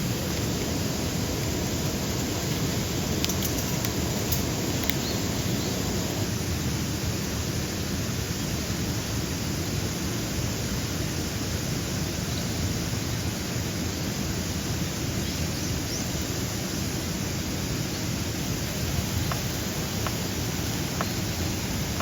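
A steady rushing outdoor noise, with a few faint ticks in the first few seconds.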